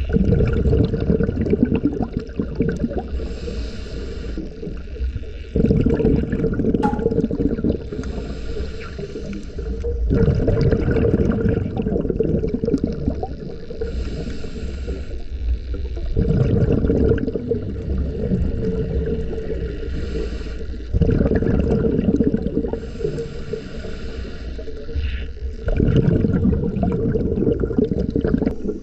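Scuba diver breathing through a regulator underwater: a burst of exhaled bubbles gurgles out about every five seconds, six times, over a steady low hum.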